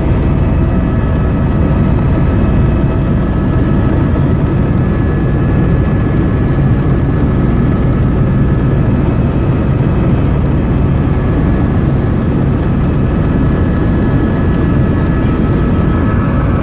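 Helicopter cabin noise heard from inside: a steady, loud drone of the engine and rotors, with a faint high whine held throughout.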